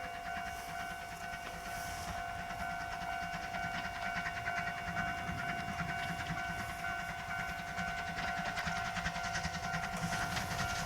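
Steam-hauled train running along the line, its wheels clattering over the rails, with a steady high tone held throughout.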